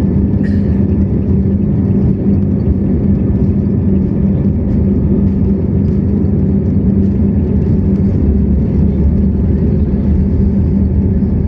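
Airbus A321neo's Pratt & Whitney PW1100G geared turbofan engines at takeoff thrust, heard inside the cabin. A steady, loud low rumble with a constant hum.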